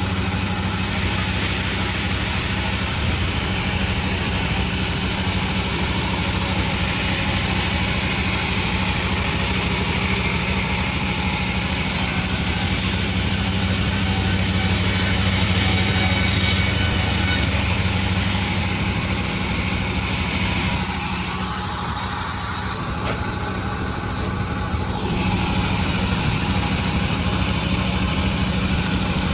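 Sawmill running steadily, a low machine hum under a dense high hiss of the saw. The hiss eases for a few seconds about three-quarters of the way through, then returns.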